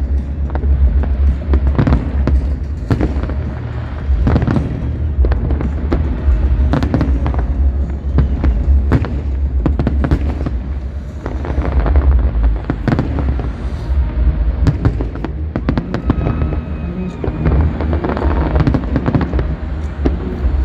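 Large aerial fireworks display: shells bursting in rapid, overlapping succession, a dense run of sharp bangs over a constant deep rumble.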